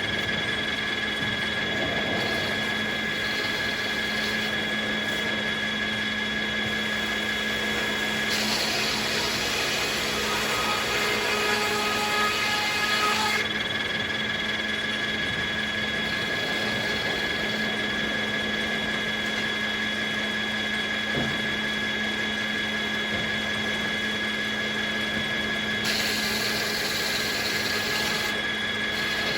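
Circular sawmill running steadily with a constant hum and high whine, with two stretches of brighter hissing noise, about eight seconds in and again near the end.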